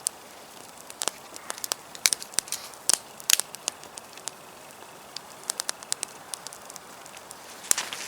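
Campfire of damp firewood crackling, with irregular sharp pops over a faint hiss and a quick run of louder pops near the end.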